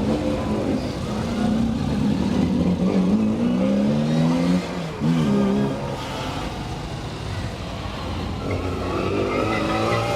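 Car engine revving hard as it accelerates up a hill climb, rising in pitch again and again, with a short break about four and a half seconds in.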